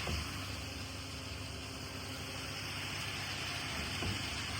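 Heavy diesel truck engine idling steadily under a constant hiss.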